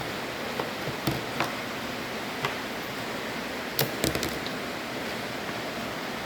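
A few light clicks and taps, with a small cluster of them about four seconds in, over a steady background hiss.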